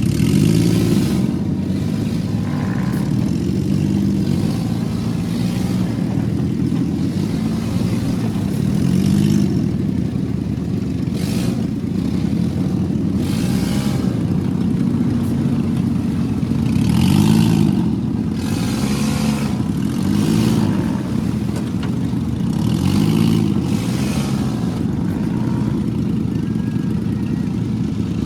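Vehicle engine under way, revving up and easing off again and again, with bursts of hiss now and then.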